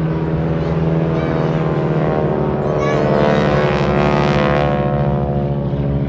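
Piston engine of a propeller biplane passing close in a display run, swelling to its loudest around the middle and easing a little near the end.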